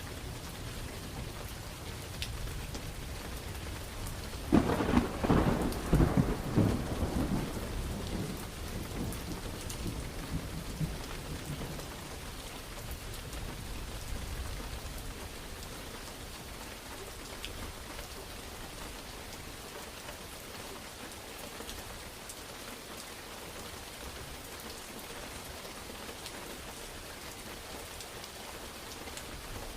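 Steady rain with a thunderclap: a sudden loud crack about four and a half seconds in that rumbles and fades over the next several seconds, then rain alone.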